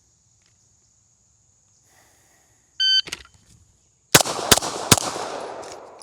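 A shot timer beeps once, and about a second later a pistol fires three quick shots, roughly 0.4 s apart, each with a long echo across the range. It is a one-shot-per-target drill on three targets.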